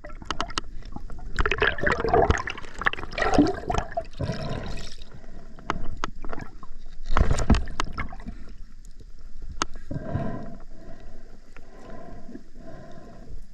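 River water gurgling and splashing in irregular surges close to the microphone.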